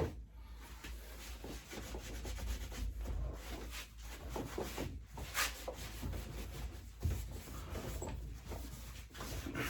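Irregular rubbing and scraping strokes as dirt is worked off a lawnmower part by hand, with a sharper click about five seconds in.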